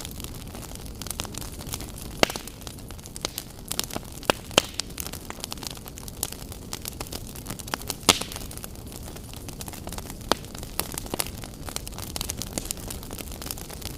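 Fire in a fireplace crackling, with irregular sharp pops over a steady low hiss; the loudest pops come about two, four and a half, and eight seconds in.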